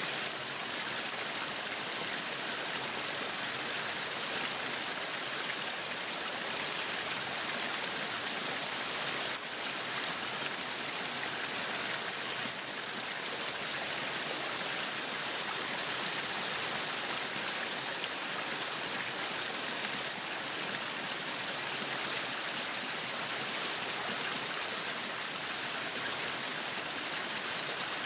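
Meat sizzling on a yakiniku grill: a steady, even hiss that holds at one level throughout.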